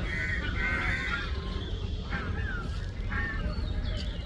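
Indian flying foxes calling from their roost: a string of harsh, repeated calls, several falling in pitch, over a steady low rumble.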